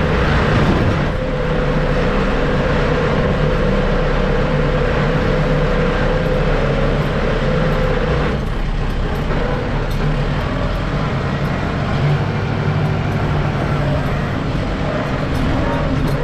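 Kubota M6060 tractor's diesel engine running steadily under load while working the backhoe, with a steady whine through about the first half that fades out partway through.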